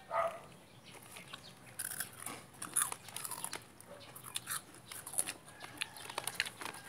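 Crunchy food being chewed: irregular crisp crunches and clicks.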